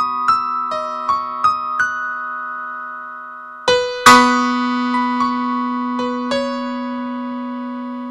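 Instrumental keyboard music: piano-like notes over a held low note, with a run of quick notes in the first two seconds and a louder chord about four seconds in.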